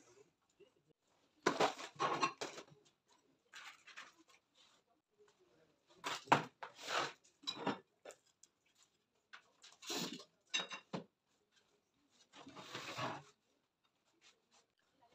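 Scattered household handling noises: short bursts of clatter, knocks and rustling as objects, dishes and cushions are moved about and set down, with quiet gaps between them.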